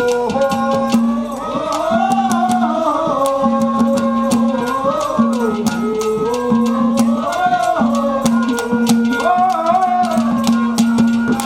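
Instrumental interlude of a live Haryanvi folk bhajan: a wandering melody line over a steady held drone note, with rapid rattling percussion strokes and hand-drum beats.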